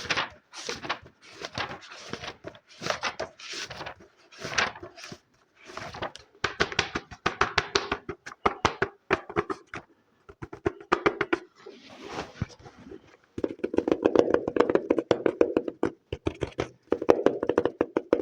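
Close-miked ASMR trigger sounds made by hand on objects: about six seconds of short scratching strokes, then very fast tapping, a rapid train of sharp taps that grows fuller and deeper around two-thirds of the way in.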